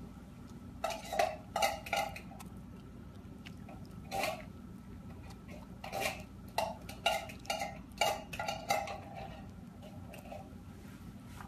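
A small pet crunching pieces of dry food: clusters of short crisp crunches, a run of them about a second in, one more around the middle, then a longer run that tapers off near the end.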